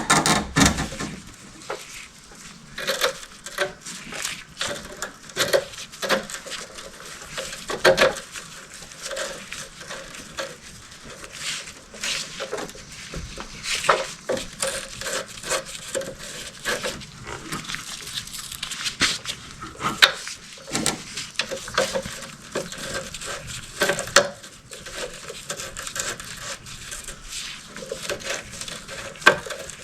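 Metal hand tools and fittings clinking and knocking irregularly as oil cooler lines are fitted to an engine.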